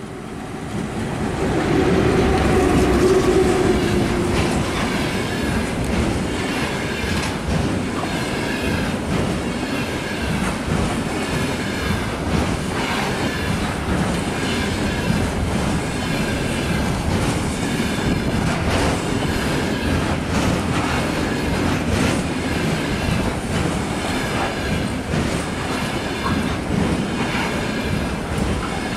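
A VL10U electric locomotive hauling a container train passes close by, the sound swelling to its loudest over the first few seconds with a low hum. Then the container flatcars roll steadily past: a continuous rumble with a regular clickety-clack of wheels over rail joints and a faint recurring high ring from the wheels.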